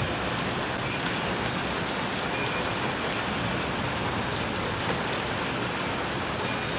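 Steady rain falling, an even hiss of rain on surfaces with no change in strength.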